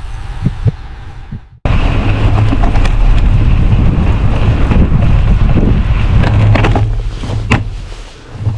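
Strong wind buffeting the microphone, a loud, steady rumble that cuts in abruptly about a second and a half in, with a few sharp clicks near the end.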